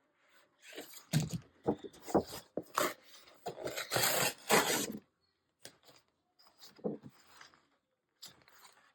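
Paper being handled at a craft table: irregular rustling, sliding and scraping, loudest about four seconds in, then thinning to a few faint rustles and taps.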